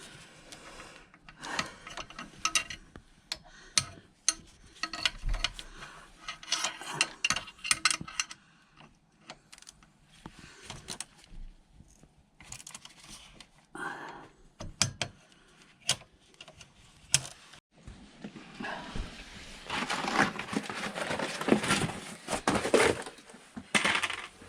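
Metal hand tools clinking and rattling in irregular bursts, with quiet gaps between: sockets and a ratchet being worked on the exhaust downpipe nuts. The longest and loudest bout of rattling comes near the end.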